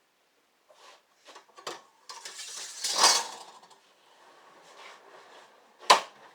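Small hard objects and tools being handled, clinking and clattering: a few light clicks, a louder rattling scrape about three seconds in, and one sharp click near the end.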